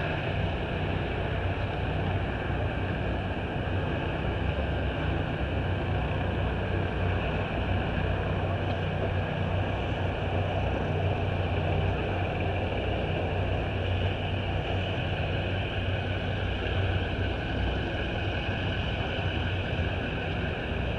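An engine running steadily: an unchanging low hum with a hiss over it.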